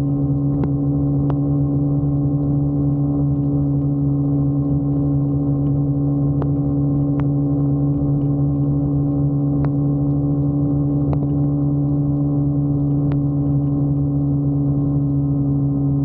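Motorcycle engine running at a steady cruising speed: an even, unchanging hum with a few scattered sharp ticks.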